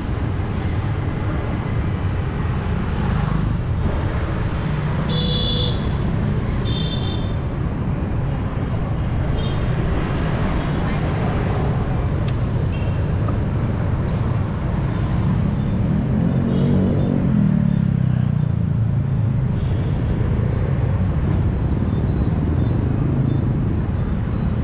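Busy street ambience heard from a moving bicycle: a steady low traffic rumble with people's voices. There are short high-pitched beeps around five and seven seconds in, and a vehicle engine passes close, swelling from about fifteen to eighteen seconds.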